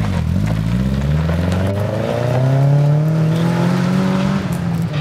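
Subaru Impreza rally car's flat-four engine accelerating hard on gravel. The revs dip briefly at the start, climb steadily for about four seconds through one gear, and drop at an upshift near the end.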